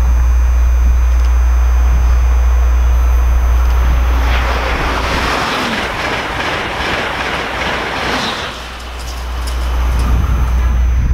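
Amtrak Acela Express high-speed electric trainset passing at speed. A rush of wheel and air noise swells about four seconds in and fades away around nine seconds, over a steady low rumble.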